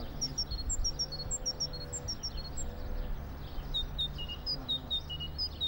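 Small birds chirping: many short, high notes at varying pitches, several a second, over a low steady hum.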